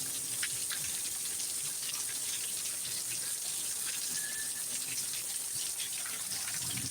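Heavy thunderstorm downpour: rain pouring down steadily, with scattered drips and splashes close by.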